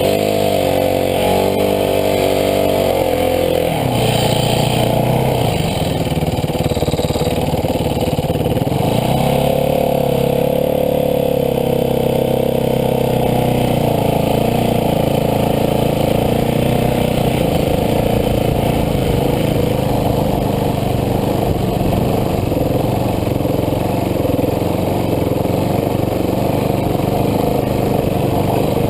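Dirt bike engine running under way. Its pitch falls and rises with the throttle a couple of times in the first ten seconds, then holds fairly steady.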